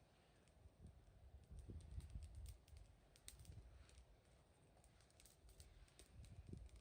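Wood fire crackling faintly: scattered, irregular sharp pops and snaps over a low rumble that swells twice.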